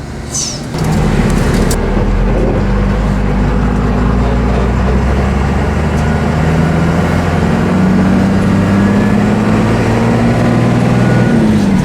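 1989 Dodge D350's 12-valve Cummins turbo diesel pulling the truck away in a low first gear. The engine note steps up about a second in, climbs slowly, then drops near the end.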